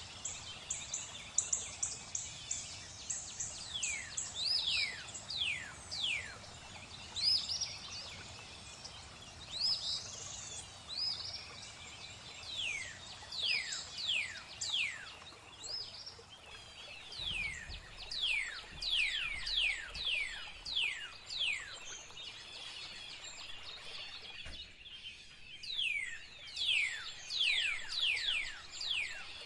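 Birds singing: runs of quick, high chirps, each sweeping steeply down in pitch, over a soft steady rush of flowing water.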